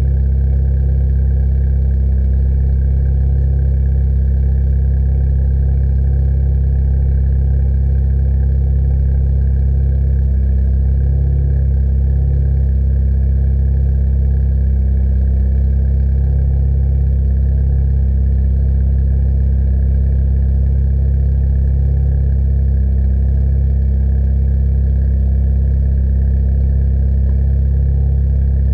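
Ford Fiesta ST running at a steady engine speed through an MBRP 3-inch exhaust: a low, even drone with no revving.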